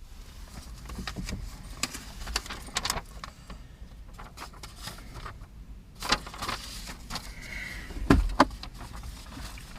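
Small clicks, knocks and rattles of people settling into a car, heard inside the cabin over a low steady rumble, with louder knocks about six and eight seconds in.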